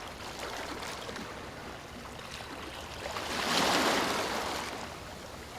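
Sea waves washing in, one wave swelling to its loudest a little past halfway and then fading.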